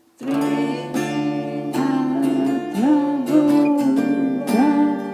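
Strummed acoustic guitar, starting about a fifth of a second in, with a melody line over the chords that slides between notes.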